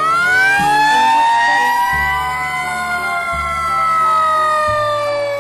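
Fire truck siren wailing, several overlapping tones that rise sharply at the start and then slowly fall in pitch.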